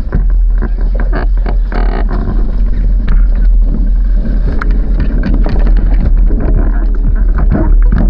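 Sailing dinghy under way in strong wind: heavy wind buffeting on the microphone with water splashing and slapping against the hull in many short hits.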